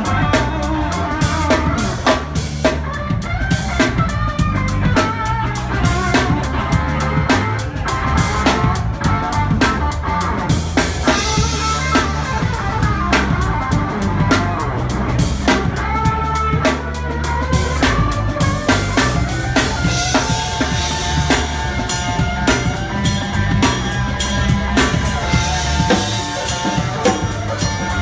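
Live rock band playing, with the drum kit loud and close, over bass and other pitched instruments.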